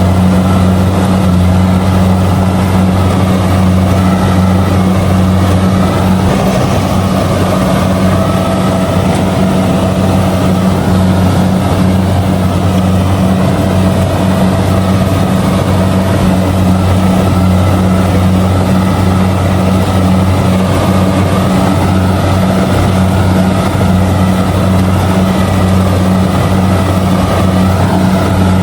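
Kubota DC70G combine harvester running steadily while harvesting rice: a constant, loud diesel engine drone with no change in speed.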